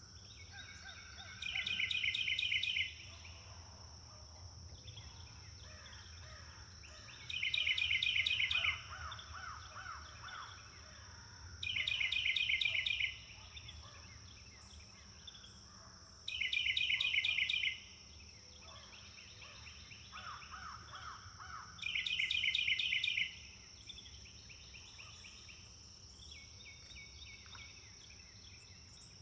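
Songbird in a forest repeating the same short, fast trilled phrase five times, about every four to five seconds. Quieter songs from other birds sit underneath, over a steady high-pitched drone.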